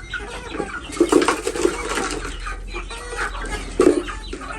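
Chickens clucking, with two louder bursts of clucks about a second in and near the end.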